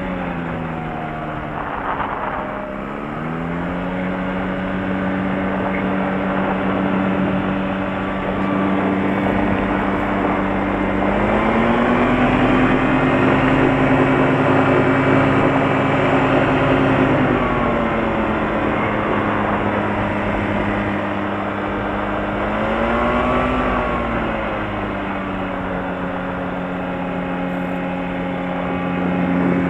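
Light aircraft engine running on the ground. It drops to a lower speed about two seconds in, is throttled up for about six seconds in the middle, rises briefly again later and settles back each time. The crew take it to be running a little rich on its carburettor jets.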